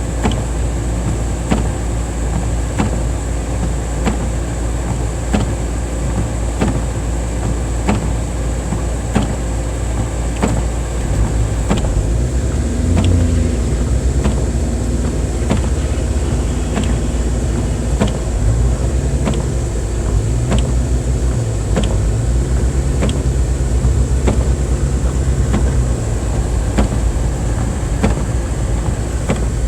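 Car on the move in snow, heard from inside the cabin: a steady low engine and road rumble with a sharp tick about every 0.7 seconds. A low wavering hum joins about twelve seconds in.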